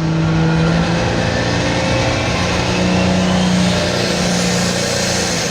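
Turbocharged 640 cubic inch diesel of a John Deere 4430 limited pro stock pulling tractor running at full power under load during a pull, loud and steady, its note lifting slightly a couple of seconds in.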